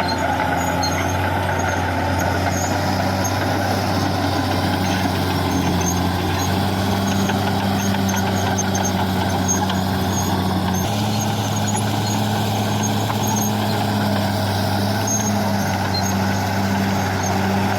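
Caterpillar D6R XL bulldozer's diesel engine running steadily under a constant hum, its note stepping slightly higher about eleven seconds in.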